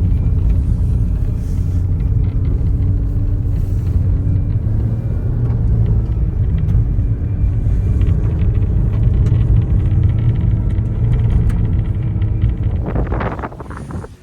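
Steady low road and engine rumble heard from inside a moving car; it drops away near the end.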